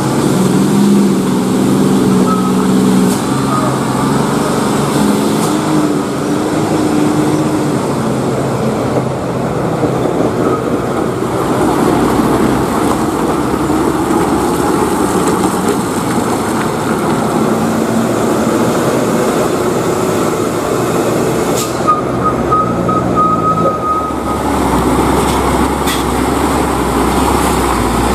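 Heavily loaded tronton trucks' diesel engines running as the trucks pass on the road, a steady, loud mix of engine note and road noise, with the engine pitch shifting in the first few seconds.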